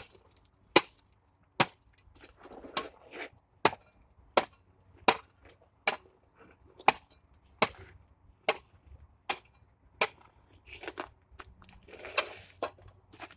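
An ice chopper striking and breaking up a crust of ice, a sharp chop about every 0.8 seconds with crunching and scraping of ice chips between strokes. The strokes get less regular near the end.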